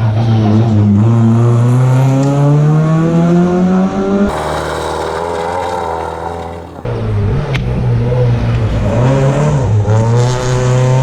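Rally car engines under hard acceleration. One engine's pitch climbs steadily, then about four seconds in the sound changes abruptly to a rougher, noisier engine. From about seven seconds a car pulls through two gear changes, its pitch dipping at each shift before climbing again.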